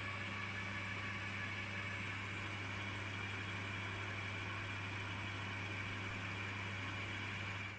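Metal lathe running steadily, with a low motor hum and a high steady whine, as a boring bar opens out the bore of a metal casting. It cuts off suddenly at the very end.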